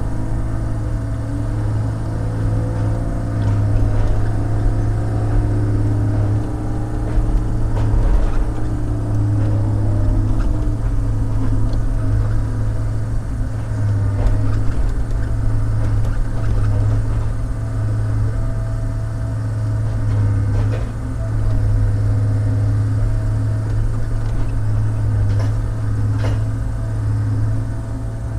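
Log loader's diesel engine running hard and steady, with a hydraulic whine that rises and falls in pitch as the boom and grapple work. A few sharp knocks come through.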